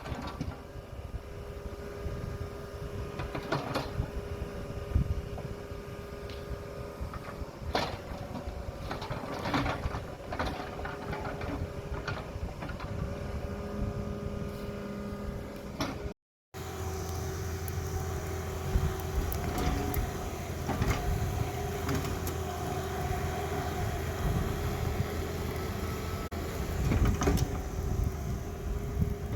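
Heavy diesel machinery running steadily, with scattered metallic knocks and clanks over the engine drone; the sound cuts out briefly about halfway through, then the engine runs on.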